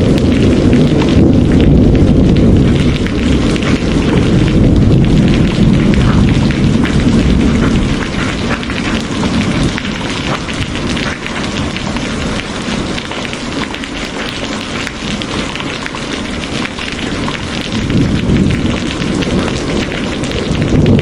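Steady rain falling, with a low rolling rumble of thunder through the first several seconds that dies away, then builds again near the end.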